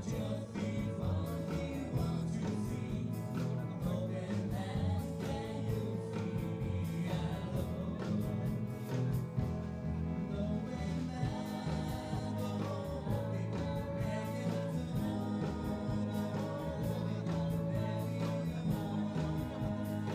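A live band playing a song with a singer, guitar and drums, at a steady beat.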